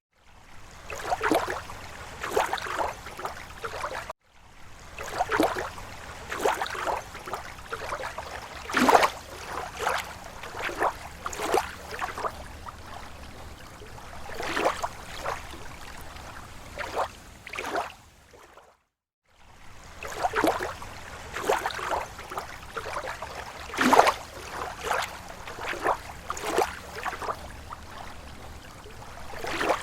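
Small waves lapping against a lake shore: irregular soft splashes and gurgles, several every couple of seconds. The sound cuts out briefly twice, about four seconds in and again past the middle.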